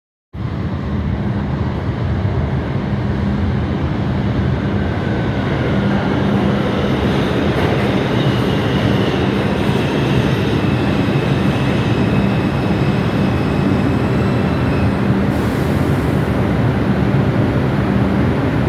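New York City subway train running along the track: a steady, loud rumble of wheels and motors, with faint high tones that drift slowly in pitch.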